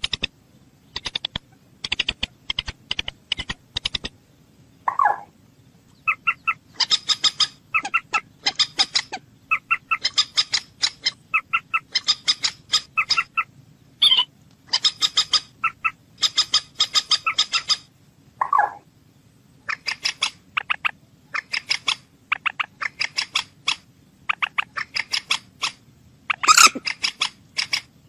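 Bird calls: a quick chattering series of short, sharp notes repeated in bursts of several a second, with an occasional lower drawn-out call in between.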